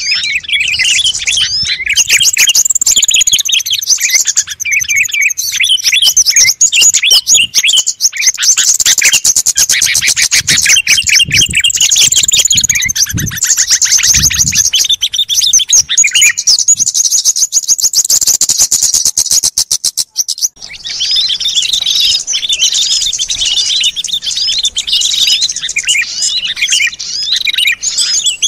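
Loud, dense chorus of many small songbirds chirping and twittering over one another, a bird-lure call mix. A fast rattling trill runs through the middle. About two-thirds of the way through, the chorus breaks off for a moment and a different mix of calls takes over.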